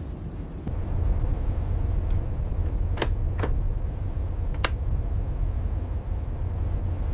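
Steady low rumble that grows a little louder about a second in, with three faint sharp clicks in the middle.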